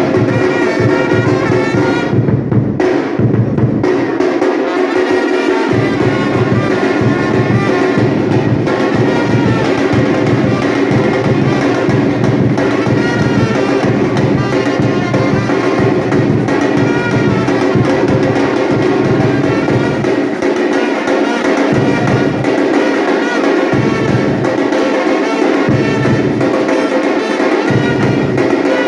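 Batucada drum group playing loud percussion under brass-led music with trumpets. The low drums drop out for a second or two several times, mostly in the second half.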